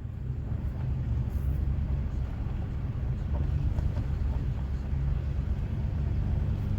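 Strong wind buffeting the microphone outdoors, a steady low rumble that flutters constantly.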